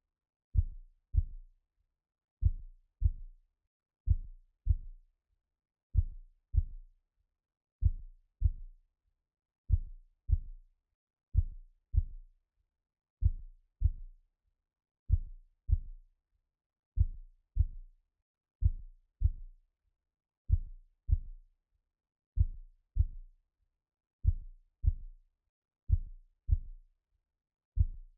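Slow heartbeat sound: soft, low double thumps (lub-dub), a pair about every two seconds, keeping a steady rhythm.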